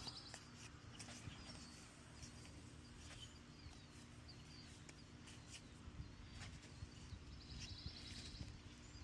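Quiet outdoor ambience with faint, high bird chirps and a short high trill about three quarters of the way in, plus a few light clicks.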